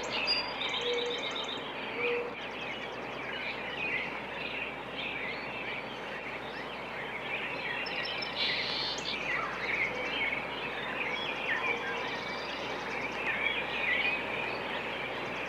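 A dense chorus of many small birds chirping at once, with a few quick high-pitched trills mixed in.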